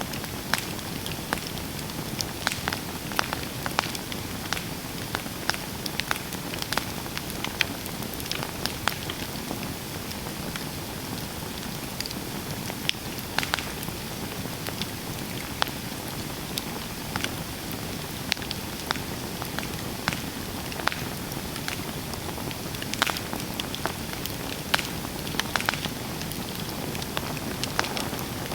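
Campfire burning: a steady hiss with frequent irregular sharp crackles and pops.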